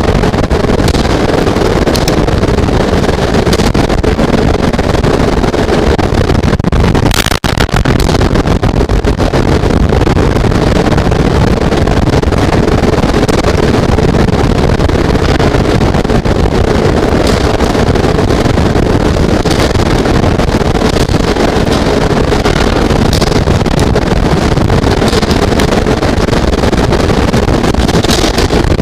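Heavy storm rain and wind beating on a falcon nest box and its camera microphone, a loud, steady rushing noise.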